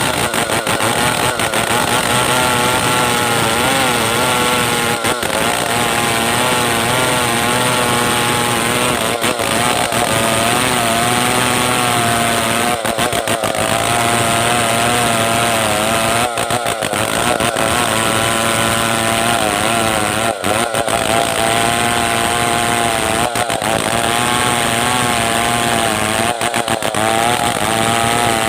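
Stihl 070 two-stroke chainsaw running at high revs while ripping lengthwise through a log to saw planks; its pitch wavers up and down as the chain bites under load, with a few very brief breaks.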